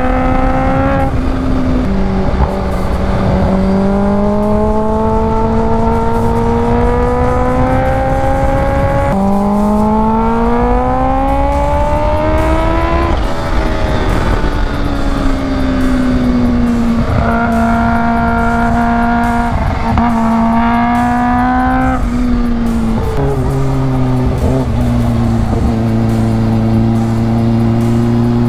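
Kawasaki Ninja H2's supercharged inline-four engine under way, its pitch climbing under throttle and dropping sharply at each of about three upshifts, with steady cruising stretches between. Heavy wind rush runs under it throughout.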